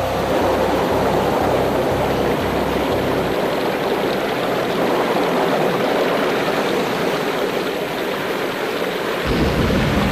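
Storm sound effects: a loud, steady rushing of wind and rain, with a deep rumble starting near the end. Low, pulsing music notes run through the first few seconds.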